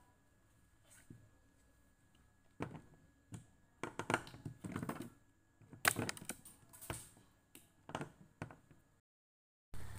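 Scattered clicks and knocks of hands working on a Samsung top-load washing machine, in irregular groups, with a dead gap near the end followed by a steady low hum starting just before the end.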